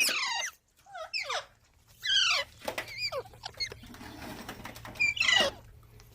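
Pet green parrot giving about five short, squeaky calls at intervals, several of them sliding down in pitch.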